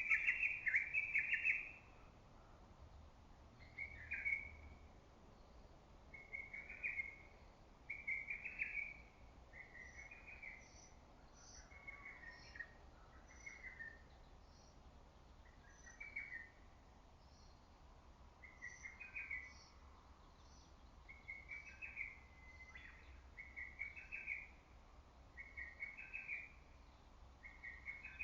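Lesser cuckoo (hototogisu) giving its loud, staccato song at the start, followed by shorter, quieter calls at about the same pitch roughly every two seconds. Faint high chirps of a smaller bird sound in the background.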